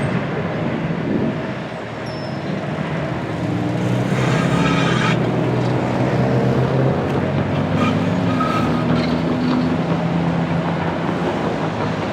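Heavy vehicle engines rumbling steadily with low, wavering engine tones. A brief higher hiss with a whine in it comes about four seconds in.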